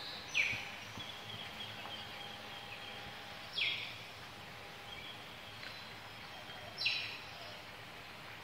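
A bird calling three times, about three seconds apart. Each call is a short, high note that falls sharply in pitch, over a faint steady outdoor background.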